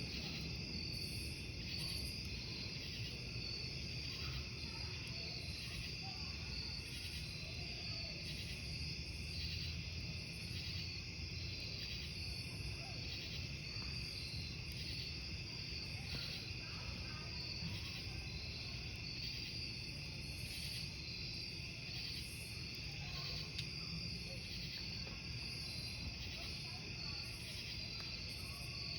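Crickets chirping steadily in a dense, pulsing chorus over a low, even background rumble.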